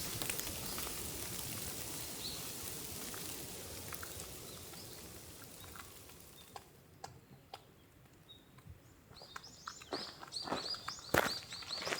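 A steady rushing noise fades away over the first several seconds. From about nine seconds in, small birds chirp over and over in quick high notes, with a few sharp knocks near the end.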